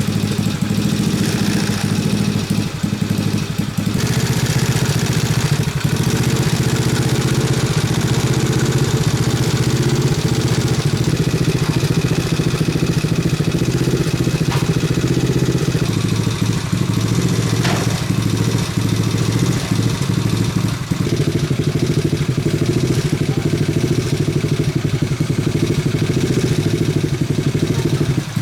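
Restored off-road motorbike's engine running steadily, its note stepping up or down slightly a few times.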